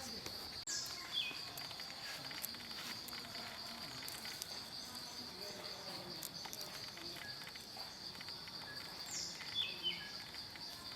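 A steady, high-pitched drone of forest insects, crickets or cicadas, with a short descending bird call heard twice: once about a second in and again near the end.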